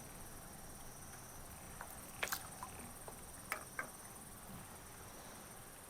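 Insects trilling steadily in a high, even chorus, with a handful of faint sharp clicks and taps between about two and four seconds in.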